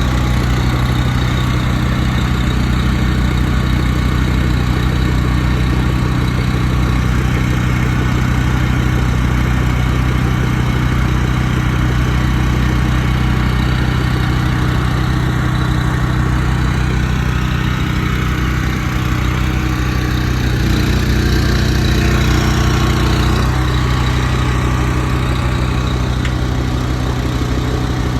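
Large truck engine idling steadily, with a brief change in its tone about twenty seconds in.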